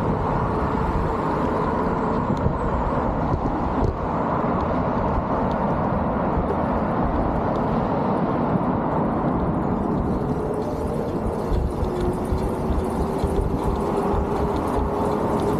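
Steady wind-and-tyre rumble of a folding e-bike being ridden, with a faint steady whine that drifts slightly in pitch.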